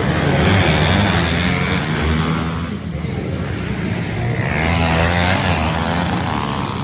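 Pit bike engines racing, revving up and down, with the pitch rising and falling as the bikes go by; one comes through loudest past the middle.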